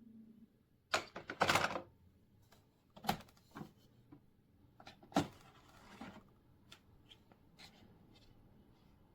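Irregular clicks and knocks from something being handled, with a cluster about a second in and two louder knocks about three and five seconds in, then lighter ticks, in a small room.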